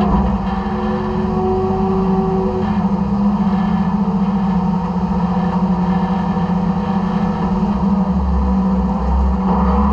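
Side-loader garbage truck's engine and hydraulics running steadily with a constant low hum, heard from inside the hopper.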